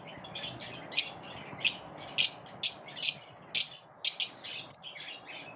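Pet lovebirds chirping: a string of short, sharp, high-pitched chirps, about two a second.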